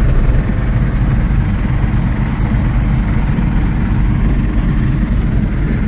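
Light aircraft engine running steadily, heard from inside the cockpit.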